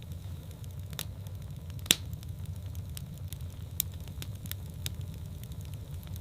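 Wood fire in a fireplace crackling: irregular sharp pops and snaps over a low steady rumble, with the loudest pop about two seconds in.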